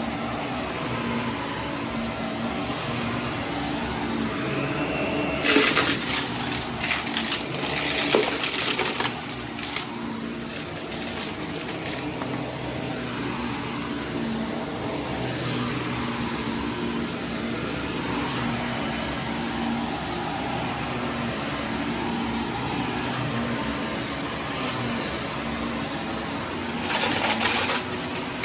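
Vacuum cleaner running steadily with a faint high whine, broken by short louder bursts of crackling hiss as debris is sucked up: about five seconds in, again around eight seconds, and near the end.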